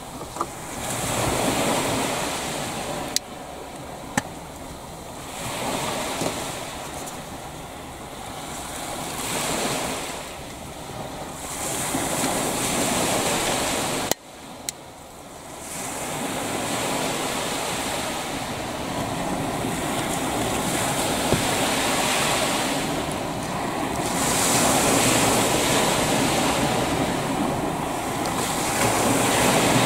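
Waves washing onto the shore, the surf swelling and falling back every few seconds, with wind on the microphone. A few sharp clicks, one about three seconds in, another about a second later and a third about halfway through.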